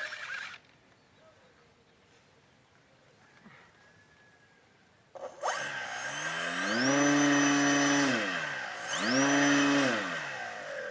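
Faint background for the first half, then a model airplane's motor is run up twice. Each time its pitch rises, holds steady at full throttle for about a second, then drops away, with a high whine riding above it.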